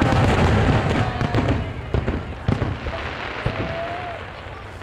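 Aerial fireworks shells bursting: a loud deep boom at the start followed by crackling, with a slowly falling whistle over the first second and a half and sharp pops about two and two and a half seconds in, dying away toward the end.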